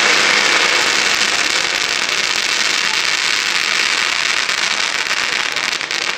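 Fireworks giving a continuous, dense crackling hiss that stays steady and eases slightly near the end.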